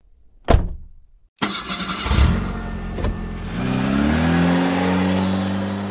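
A sharp knock, then a car engine cranks and catches, revs up and settles into a steady fast idle that slowly eases down.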